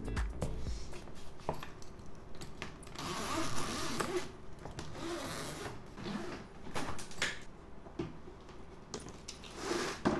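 Objects being handled: rustling and scraping with scattered clicks, and a few short swishing noises, the longest about three seconds in.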